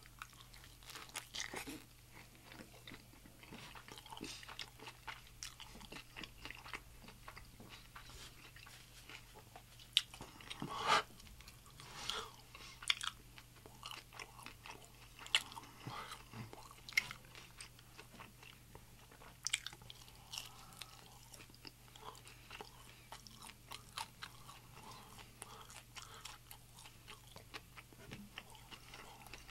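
Close-up chewing and biting of a crisp fried birria taco, with irregular crunches and mouth clicks; a few louder crunches come in the middle.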